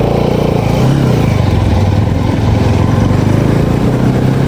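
Motorcycle engine running while riding, its pitch rising a little about a second in.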